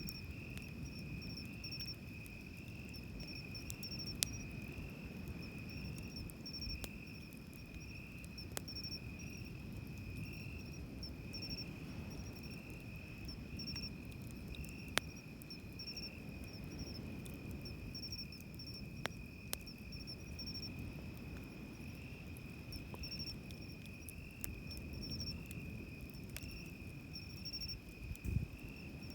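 Crickets singing without pause: one a steady pulsing trill, another a run of short repeated chirps higher up. Underneath is the low, even wash of surf, and now and then a sharp single pop from a wood campfire.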